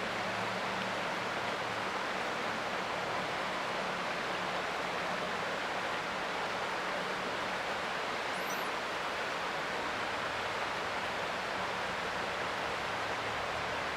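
Creek water flowing, a steady even rushing hiss. A single brief high chirp, like a small bird, about halfway through.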